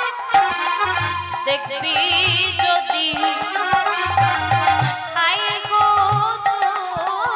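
Kirtan ensemble music with no lyrics: a harmonium's sustained reed notes, a wavering high melody line over them, and repeated low hand-drum strokes in a loose rhythm.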